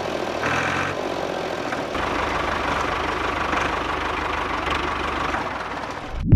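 A small motor running steadily with an even, rattling hum, cutting off abruptly near the end.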